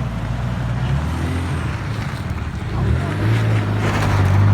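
Nissan 300ZX Twin Turbo's V6 engine running at low revs while the car creeps forward, the revs rising a little about three seconds in.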